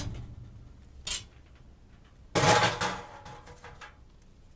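Furnace parts being handled while it is opened up for the filter: a short scrape about a second in, then a louder rattling clatter around two and a half seconds in that dies away over about a second.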